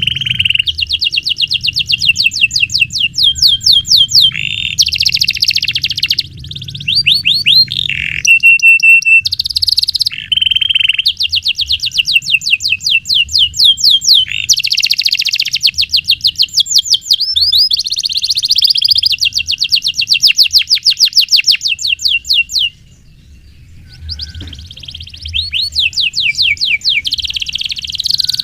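Domestic canary singing long, fast rolling trills of rapidly repeated high notes, phrase after phrase, with a short break about two-thirds of the way through.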